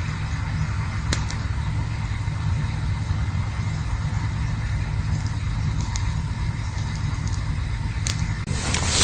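Campfire burning with a steady low rumble and a few faint, sparse crackles; a louder rushing noise swells near the end.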